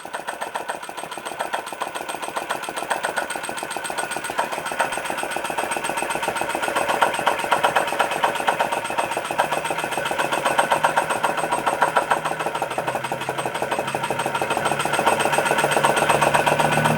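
Small Chinese-made flame licker (vacuum) engine running with a rapid, regular clatter of strokes that grows gradually louder. It is not yet properly adjusted, which the owner puts down to the flame's position.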